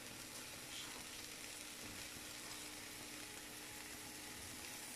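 Chana dal mixture with spices, coriander and green onion sizzling softly in oil in a frying pan as it is roasted: a steady, even hiss.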